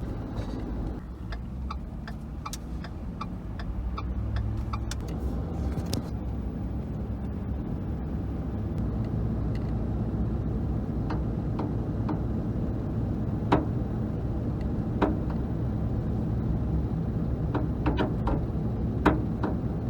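Truck driving slowly, heard from inside the cab: a steady low engine and road rumble that builds slightly a few seconds in, with scattered light clicks and rattles.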